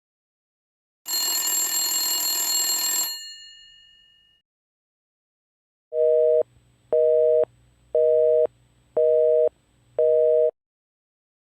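A telephone bell rings for about two seconds, then dies away. Then a telephone busy signal: five short two-tone beeps, about one a second.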